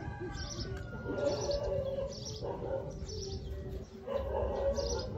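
Small birds chirping in short high notes repeated about twice a second, over a low steady rumble.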